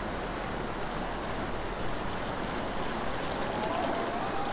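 Sea surf: small waves breaking offshore and foaming water washing over shallow sand at the water's edge, a steady rushing hiss.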